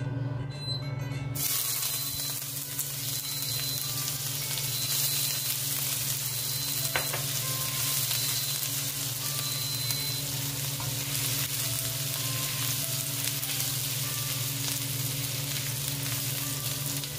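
Minced garlic sizzling in hot oil in a wok, the sizzle starting about a second in and running steadily while a spatula stirs it, with one sharp tap near the middle. Under it, a rice cooker plays its short electronic beeping tune.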